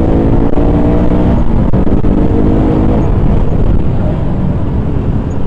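KTM Duke 200's single-cylinder engine running while the bike is ridden, with its pitch held fairly steady for about three seconds and then fading into steady low rumble.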